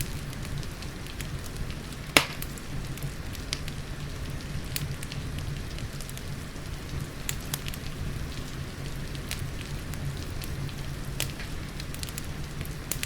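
Wood fire crackling with scattered pops and one loud snap about two seconds in, over a steady patter of rain.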